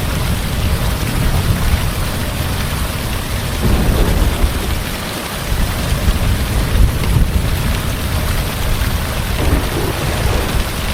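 Heavy rain falling steadily under a low, rolling rumble of thunder that swells and fades.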